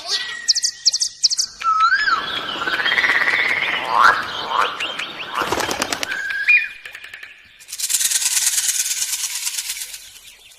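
A string of different bird calls following one after another with sudden changes: a steady whistle, rising and falling whistled notes, quick chirps, and then a fast, dry rattling trill in the second half.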